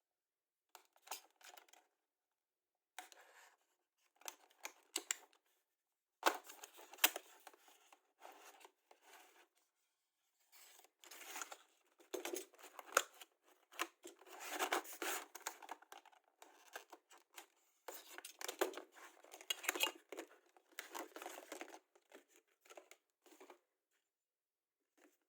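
Plastic packaging rustling, crinkling and tearing in irregular bursts as tools are unwrapped.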